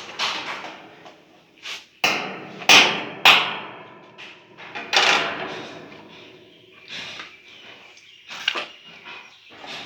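Irregular knocks and thuds of hands and tools on hard parts during window air conditioner installation, the loudest about two, three and five seconds in, with lighter knocks later.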